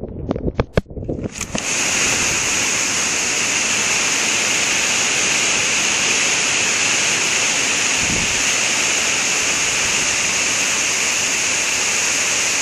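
Heavy hurricane rain pouring down in a steady, loud rushing hiss that starts suddenly about one and a half seconds in, after a few sharp knocks.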